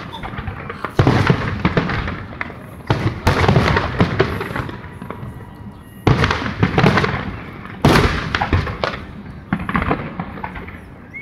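Aerial fireworks shells bursting: a series of sudden loud booms a second or few apart, each trailing off into dense crackling that fades.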